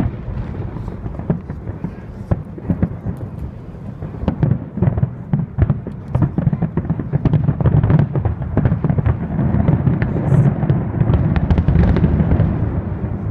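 Fireworks display going off: a rapid run of bangs and crackles that grows denser and louder about halfway through.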